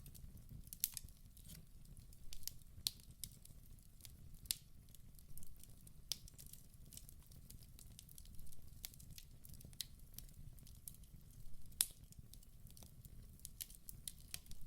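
Wood fire burning in a fireplace: irregular sharp crackles and pops over a low steady rumble, with one louder pop about twelve seconds in.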